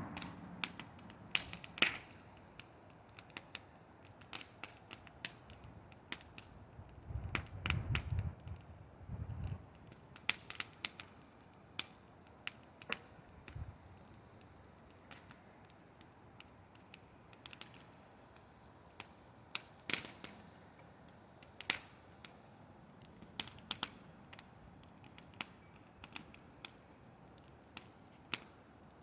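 Wood bonfire crackling: irregular sharp pops and snaps, with a few low thuds about seven to nine seconds in.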